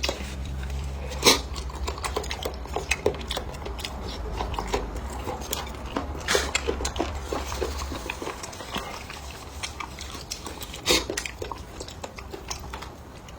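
Close-up eating sounds: chewing and mouth smacking mixed with utensils clicking against dishes, and three sharper clacks about a second in, about six seconds in, and about eleven seconds in.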